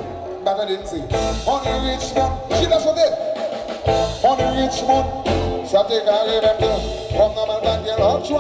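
Live band music: a melody line that bends in pitch over a pulsing bass and drum beat.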